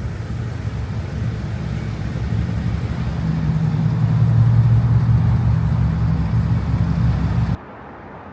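BMW M550i's N63 twin-turbo V8 running with its muffler and resonators cut off: a deep, steady exhaust drone that grows louder in the middle, then cuts off suddenly near the end.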